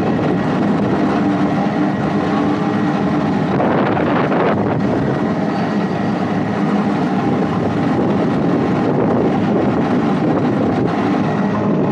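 An amusement-park helicopter ride's machinery running, a steady loud hum of several tones. A brief rushing noise comes in about four seconds in.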